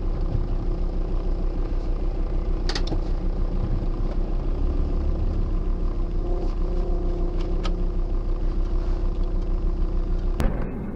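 Steady low rumble of a car's engine and road noise heard inside the cabin, with a few faint clicks along the way; the sound changes abruptly near the end.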